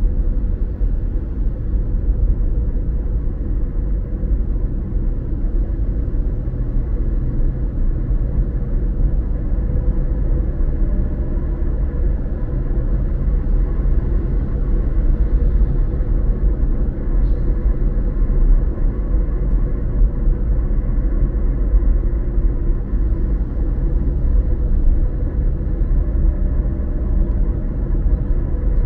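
Car driving at a steady pace: a continuous low rumble of engine and road noise, even throughout.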